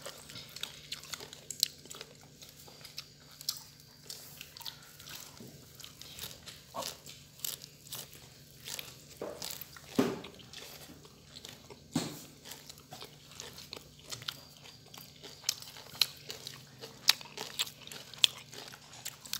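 People eating a chicken, avocado and raw-herb salad by hand: crunching and chewing, with the rustle of herbs being picked from the pile, heard as many short scattered clicks and crackles.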